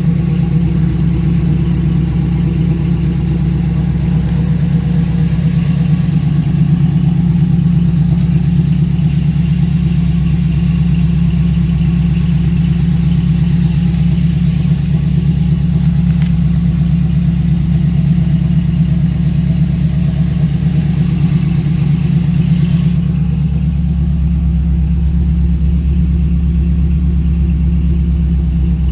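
1968 Chevrolet Camaro engine idling steadily, with a high hiss above it that drops away about three-quarters of the way through.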